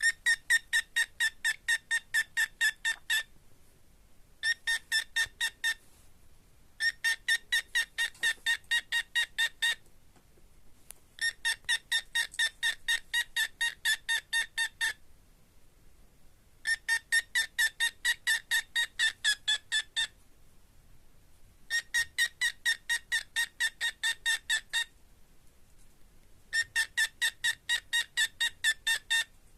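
Rapid electronic beeping, about four even beeps a second, in runs of about three seconds with short pauses between, like a phone ringtone or alarm.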